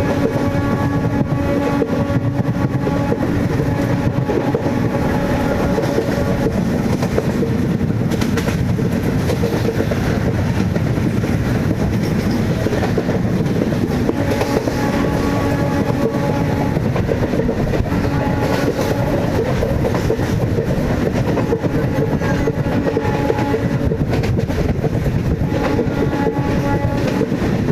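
MEMU electric train running at speed: a steady loud rumble with the clatter of wheels on the rails, and a steady multi-note tone that comes and goes several times.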